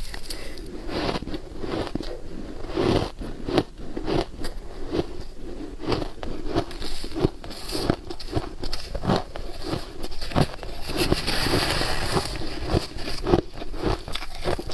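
Frozen matcha ice being bitten and chewed: repeated crunches and crackles as the ice breaks between the teeth, with a denser stretch of crackling about two thirds of the way through.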